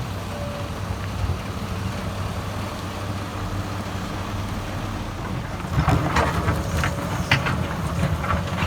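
Excavator's diesel engine running steadily while it works; about six seconds in it grows louder, with a run of clanks and knocks as the bucket works the load.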